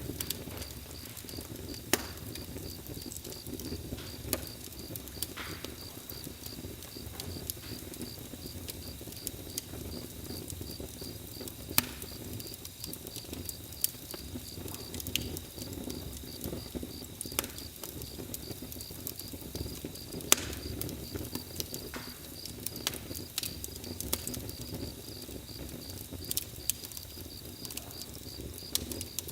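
Campfire crackling, with scattered sharp pops over a low steady rumble, and a steady, rapidly pulsing high chirp of crickets throughout.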